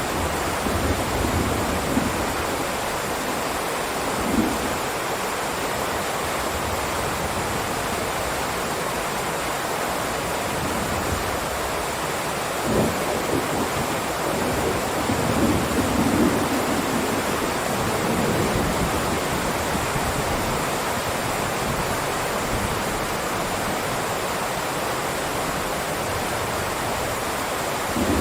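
Heavy rain falling in a steady downpour, with a few brief low rumbles.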